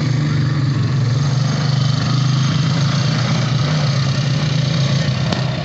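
All-terrain vehicle engine running steadily at low revs, an even hum with no change in pitch.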